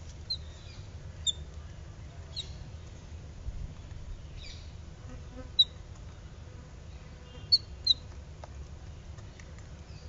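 Short, sharp bird chirps, several of them spaced a second or so apart, the loudest a little past halfway and a close pair about three-quarters through, over a low steady background rumble.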